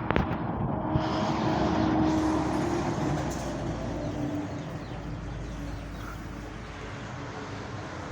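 Engine running steadily with a low hum and a held tone. It is loudest about two seconds in, then slowly fades.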